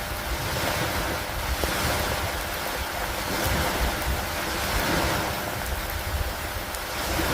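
Steady rain falling on a wooden dock and lake water, with a low rumble underneath and a wash that swells and fades every couple of seconds.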